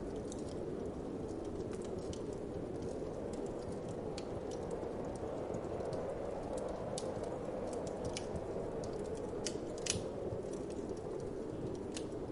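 Wood fire crackling with scattered sharp pops, the loudest about ten seconds in, over a steady whoosh of wind.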